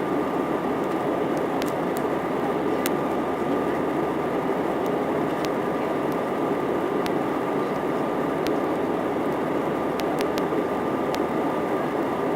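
Steady rushing cabin noise of an Airbus A319-131 in flight, from its IAE V2500 jet engines and the air flowing past the fuselage, with a faint steady whine and a few faint ticks.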